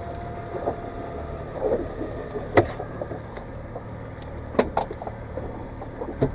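Boat motor running low and steady, with a few sharp knocks and clicks over it.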